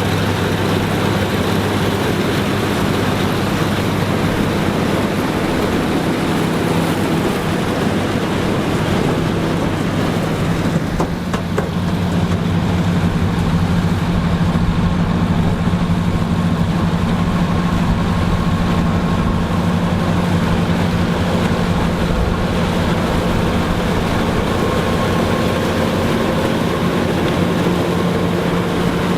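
Engine of vintage corn-harvesting farm machinery running steadily; after a brief dip about eleven seconds in, its note shifts and carries on.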